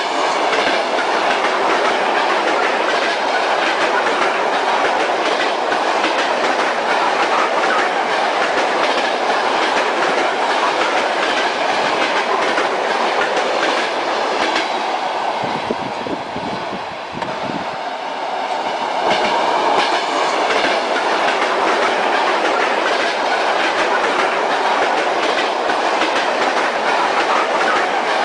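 Train wheels clattering over the rail joints as a passenger carriage runs along the track, over a steady rolling rumble, as heard on board. About halfway through the sound dips and thins for a few seconds, then returns.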